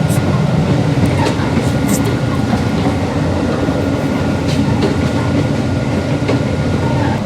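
Passenger train running along the track: a loud steady rumble with rattling and scattered sharp clicks from the wheels and carriages.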